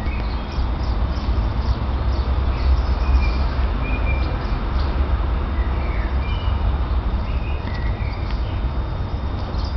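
Small birds chirping here and there in short high notes over a steady low rumble.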